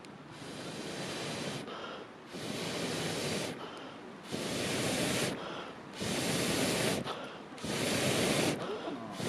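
Air blown into a campfire in repeated long puffs, a rushing hiss about every two seconds with short pauses between.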